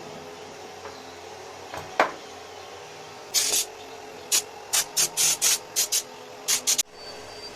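Refrigerator-compressor air compressor running with a steady hum, a sharp click about two seconds in, then about ten short bursts of hissing compressed air released in quick succession.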